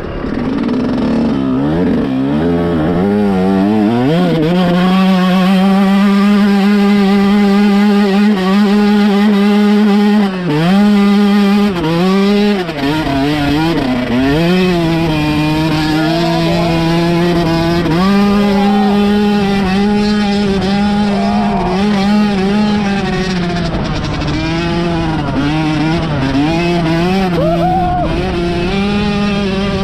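Enduro motorcycle engine under load, revs climbing over the first few seconds and then mostly held high and steady. Several quick drops and pick-ups of the revs come around the middle as the throttle is eased and reopened.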